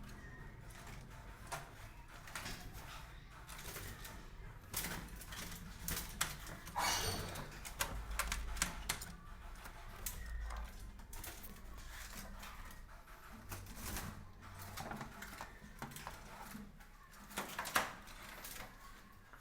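Irregular clicks, taps and scratches from caged hill mynas moving about, with a louder click near the end.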